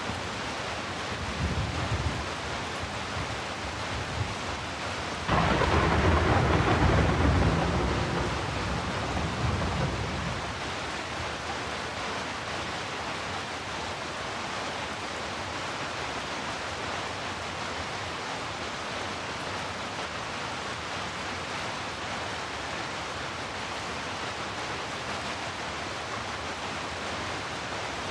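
Steady heavy rain. About five seconds in, a loud rumble of thunder breaks in suddenly and rolls away over the next few seconds, leaving the even hiss of rain.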